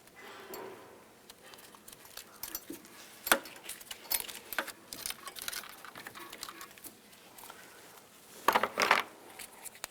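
Small clicks and rustles of automotive wires and a hand tool being handled, with one sharp click about three seconds in and a louder, longer scraping burst near the end.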